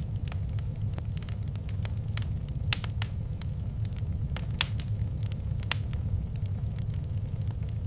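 Wood fire crackling in a fireplace: irregular sharp pops and snaps, a few louder ones, over a steady low rumble of the burning.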